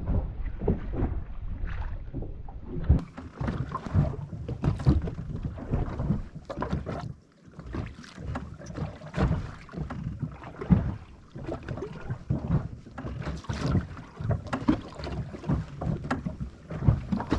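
Wind buffeting the microphone and water slapping against the hull of a small boat at sea, in uneven gusts and knocks, with a brief lull about seven seconds in.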